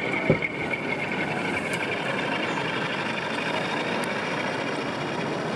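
Steady background din of a busy exhibition hall, with a thin high whine that fades out after about two seconds and a short knock just after the start.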